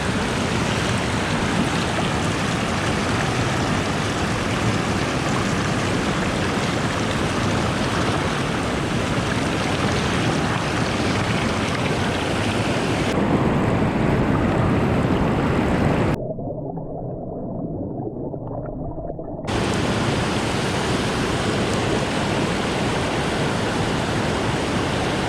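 Steady rush of river water flowing below a dam, sounding dull and quieter for a few seconds past the middle.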